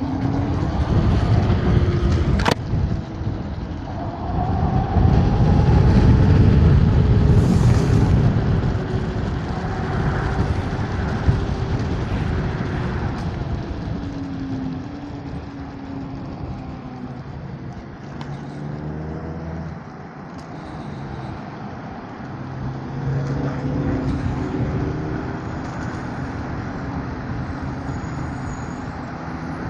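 Street traffic: cars and trucks passing on a city road, heard from an electric scooter in motion. It is loudest over the first dozen seconds and then eases off.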